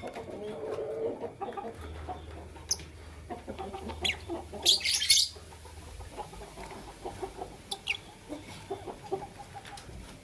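Lovebirds calling: scattered sharp, high chirps, with one longer, louder shriek about five seconds in, over a steady lower-pitched chatter.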